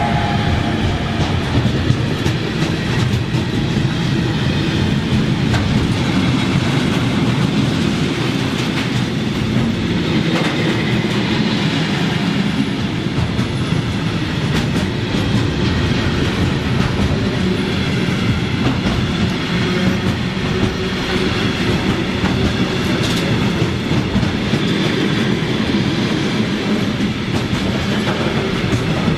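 Train running past close by: a loud, steady rumble of wheels on rails with a stream of clicks from the rail joints, lasting the whole time without a break.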